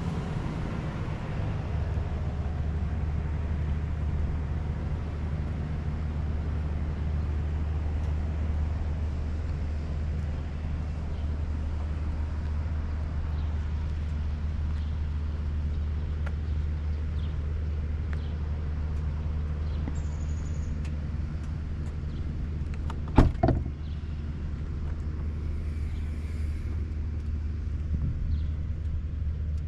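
2024 Corvette C8 Z06's 5.5-litre naturally aspirated flat-plane-crank V8 idling steadily. A short cluster of sharp knocks comes about two-thirds of the way through.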